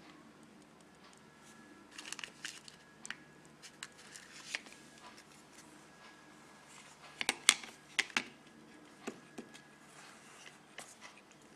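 Irregular clicks, taps and short crinkling rustles of close handling, loudest in a cluster about seven to eight seconds in, over a faint steady hum.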